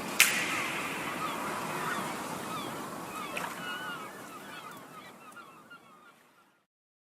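Background soundtrack fading out: a sharp hit just after the start, then short chirping calls over a noisy wash, dying away to silence about six and a half seconds in.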